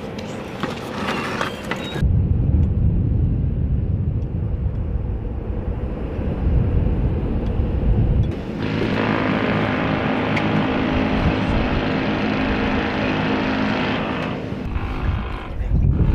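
CH-53E Super Stallion helicopter running: a deep, even rumble, then about eight seconds in an abrupt change to a denser, higher whine with many steady tones, which falls away near the end.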